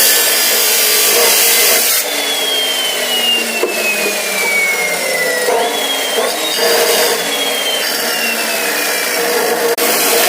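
A power tool cutting or grinding metal with a loud rasping noise. Its whine sinks slowly in pitch as it bogs under load, picks up again about halfway through, then sinks once more. The sound changes abruptly twice, as if cut between short takes.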